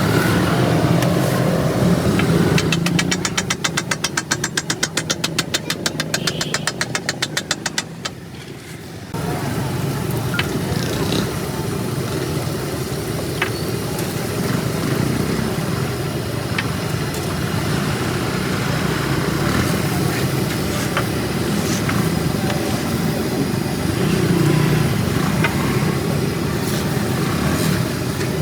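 Roadside street noise from traffic engines running. For about five seconds near the start there is a fast, even clicking, about ten clicks a second, and later a few scattered sharp taps.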